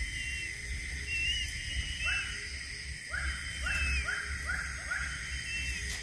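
A bird gives a run of five or six short, falling call notes, evenly spaced, about two seconds in. Faint short whistled notes and a steady high hum continue throughout.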